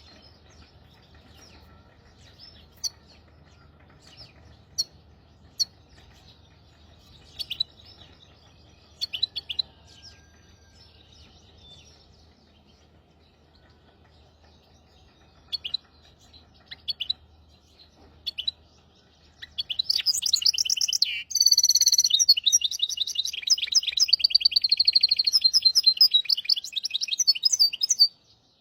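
A hybrid finch singing. Scattered single chirps and short calls give way, about two-thirds in, to a fast, continuous trilled song phrase of about eight seconds that cuts off abruptly. A faint low hum runs underneath.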